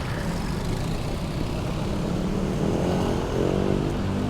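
Heavy street traffic: vehicle engines running in a continuous drone, with one engine climbing in pitch about three seconds in as it speeds up close by.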